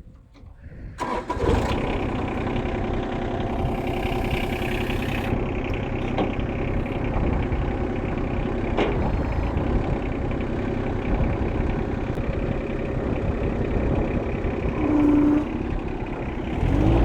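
Tractor engine starting about a second in, then running steadily at idle, growing louder near the end.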